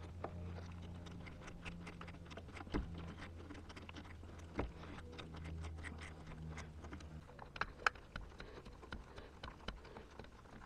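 A small motor hums low and unevenly for about seven seconds, likely a drill-driver turning slowly as it drives Phillips screws into a door trim piece, with scattered light clicks and taps throughout.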